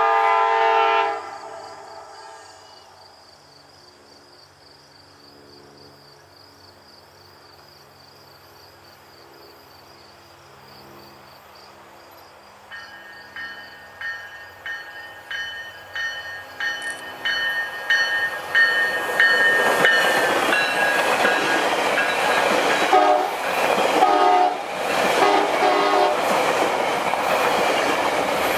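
A GO Transit commuter train's horn sounds a loud chord and cuts off about a second in. Its bell then rings with steady, evenly spaced strokes that grow louder as the train approaches. From about two-thirds of the way in, the train passes close by with a loud rumble and the clickety-clack of wheels over rail joints.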